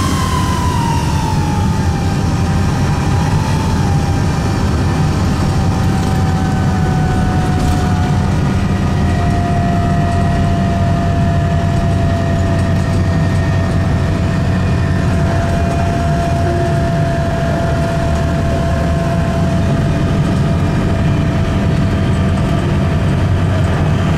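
A 2002 Nova Bus RTS's Detroit Diesel Series 50 engine running under a steady low rumble, with a high whine that drops in pitch over the first couple of seconds and then holds, sinking only slowly. The whine is the odd engine-compartment noise the owner puts down to a bad turbo.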